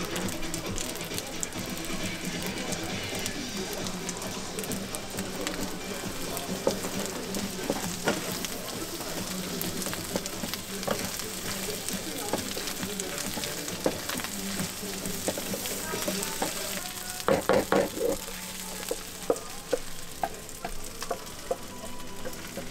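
Sundae (Korean blood sausage), onions and perilla leaves sizzling in a hot frying pan while a wooden spatula stirs and scrapes them, with scattered knocks against the pan and a quick run of louder knocks about three-quarters of the way through.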